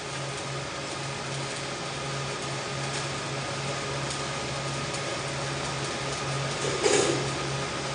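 Steady machine hum and hiss, with a low hum that pulses on and off and faint ticks throughout. A short, louder rush of noise comes near the end.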